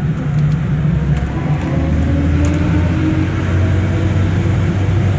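A tourist road train's engine and rolling noise, heard from on board: a steady low drone that grows stronger about two seconds in.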